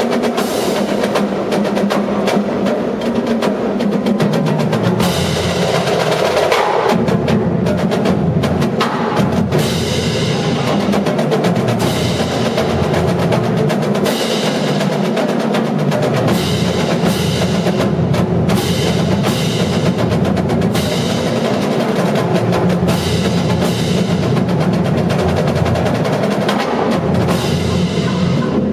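Marching drumline playing: a dense, fast stream of drum strokes with rolls and strong accented hits landing at regular intervals.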